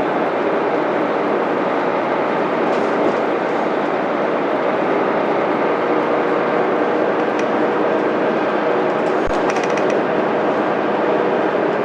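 Mitsubishi Fuso Aerostar city bus under way, its 6M70 12.9-litre straight-six diesel running at a steady pitch under dense road and body noise. A few faint high ticks come near the end.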